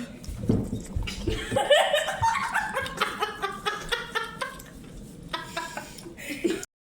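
A woman's nervous, wordless vocalizing: a rising squeal, then a run of short, quick laughs and whimpers, which cut off suddenly near the end.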